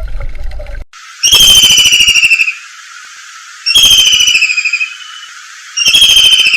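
Three loud, high whistled animal calls, each about a second long and falling slightly in pitch, with a rapidly pulsing, buzzy edge.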